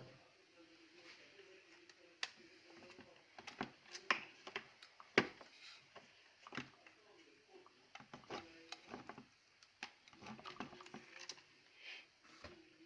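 Plastic parts of a Rowenta vacuum cleaner's housing being handled and taken apart to reach the motor: irregular clicks and knocks, with one louder knock about five seconds in.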